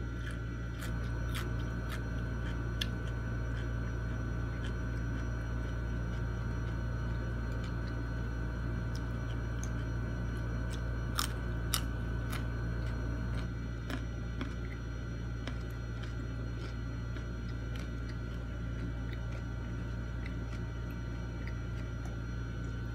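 Quiet eating sounds: sparse small clicks and crunches of someone chewing and picking food by hand, with two sharper clicks about halfway through. A steady low hum runs underneath.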